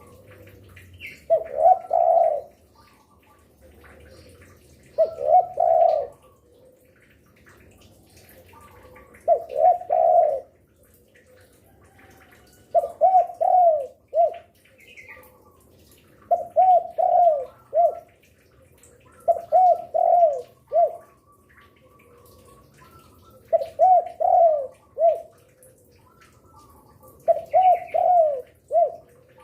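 Spotted dove (derkuku) cooing persistently: about eight short phrases of two to four low, arching coos, coming one every three to four seconds.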